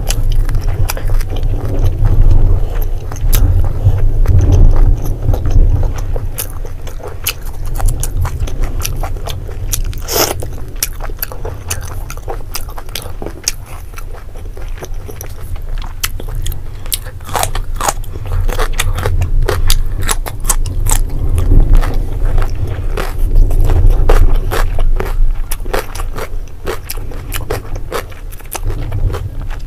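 Close-miked chewing and wet mouth clicks of a person eating fried pork, dry meat and rice by hand, with frequent sharp clicks throughout over a steady low rumble.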